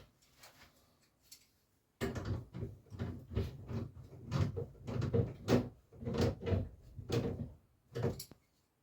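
A run of irregular knocks and clunks, about a dozen over some six seconds, starting suddenly and stopping abruptly: hands and tools working on a boiler's pipework and fittings.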